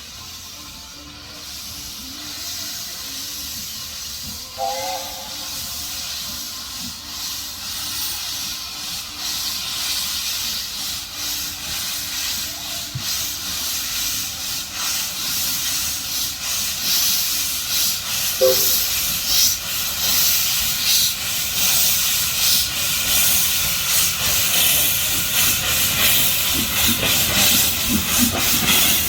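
Steam locomotive approaching under steam, its hiss and exhaust beats growing steadily louder. A brief whistle sounds about five seconds in, and another shorter one a little past halfway.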